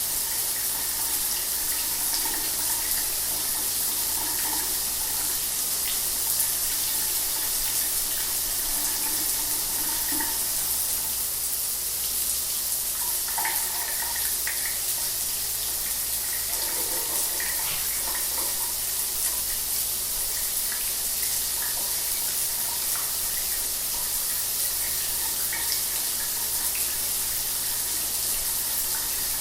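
Shower running steadily, a continuous hiss of spray strongest in the high frequencies, with faint irregular splashing.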